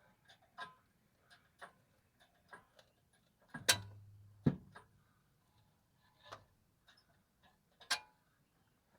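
Irregular metallic clicks and knocks from tools and parts being handled during cylinder-head removal, with two louder knocks close together about four seconds in.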